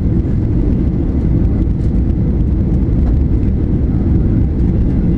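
Steady low rumble of a Boeing 737 airliner's jet engines and airframe, heard from inside the passenger cabin.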